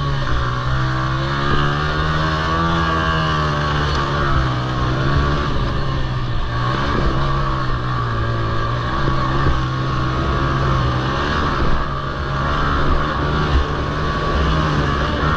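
Honda TRX90 quad's small single-cylinder four-stroke engine racing, its pitch rising and falling again and again as the throttle is opened and backed off.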